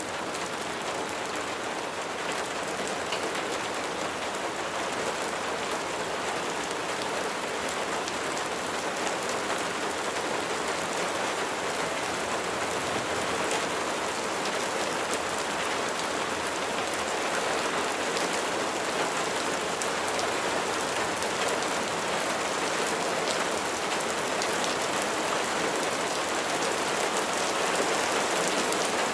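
Steady rain falling, a dense even hiss with many fine drop ticks, growing slightly louder near the end.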